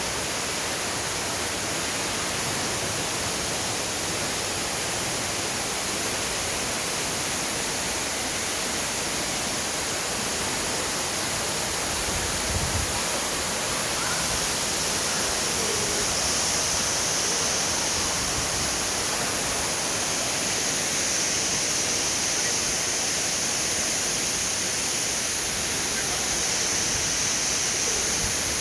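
A steady, even rushing noise with no distinct events. About halfway through, a higher hiss joins in and stays.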